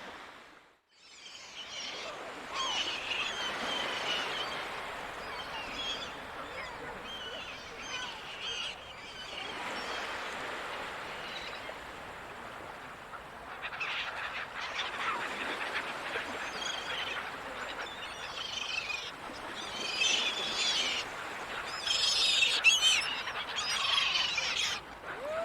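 Seagulls calling again and again over a steady wash of ocean noise, after a brief dropout at the very start. The calls come in clusters and are thickest and loudest in the last few seconds.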